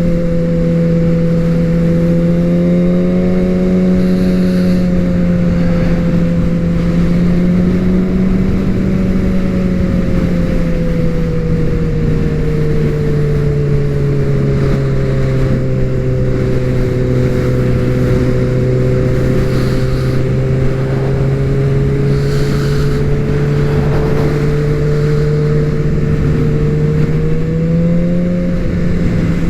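Suzuki GSX-R750 inline-four motorcycle engine running at steady cruising revs under wind noise. The engine note sags gradually about halfway through and climbs again near the end.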